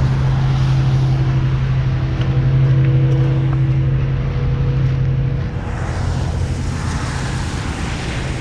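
2004 Mustang Mach 1's 4.6-litre four-valve V8 running while driving, a steady drone that eases off and changes character about five and a half seconds in, leaving more road and wind noise.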